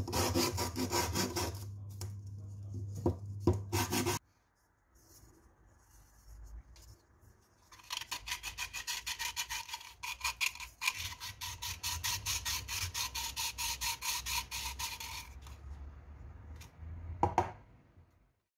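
Rapid, even rubbing strokes, about four a second, like scrubbing, in two runs: one over a low hum that cuts off about four seconds in, and a longer run in the middle. A couple of knocks come near the end.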